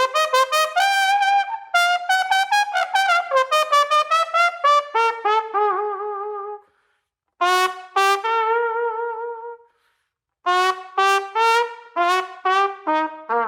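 Unaccompanied solo trumpet playing quick runs of short notes and held notes with vibrato, in three phrases broken by two short silences. The changes in tone come from the player's lips, mouth and tongue alone, on an unchanged trumpet and mouthpiece.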